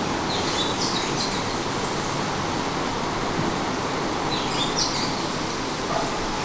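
Steady outdoor background noise with birds chirping short high notes, once near the start and again after about four seconds.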